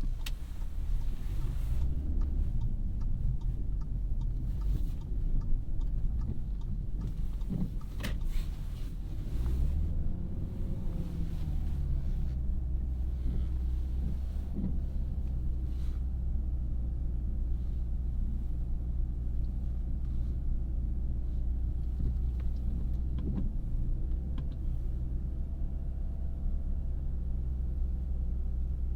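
2017 Audi A3's 2.0-litre turbocharged four-cylinder engine and road noise heard from inside the cabin while driving. There is a rough rumble with a few knocks in the first third and a rise and fall in engine pitch, then a steady drone.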